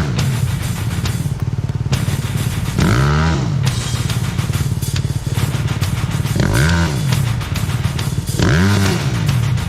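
Suzuki 250 dirt bike engine running on a trail, its pitch rising and falling three times as the throttle is opened and closed, with music faintly underneath.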